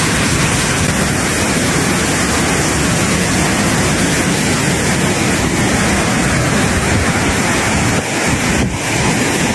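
Mountain waterfall pouring with a loud, steady rush of water.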